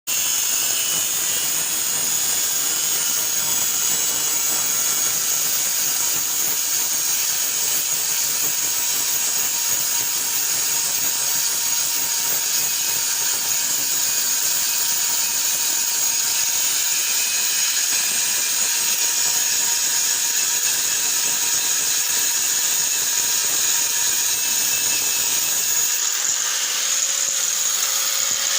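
Drill press running steadily, a constant machine noise with a high whine.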